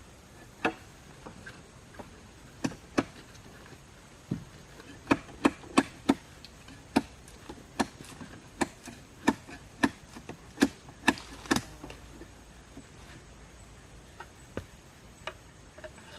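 Wood being chopped with a blade: a run of sharp, separate chops, a couple a second through the middle stretch, with only a few scattered strokes at the start and near the end.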